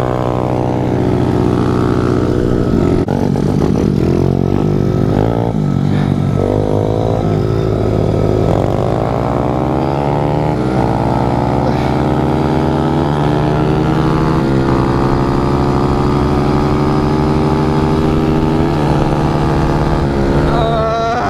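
Small pit bike engine being ridden hard, its pitch climbing as it accelerates and dropping back at each shift, several times over.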